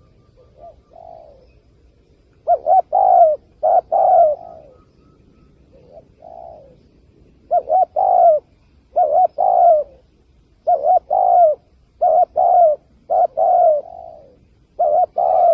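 Spotted dove cooing in repeated phrases, each a few quick short notes ending in a longer coo that falls in pitch, about half a dozen phrases with softer single coos between them.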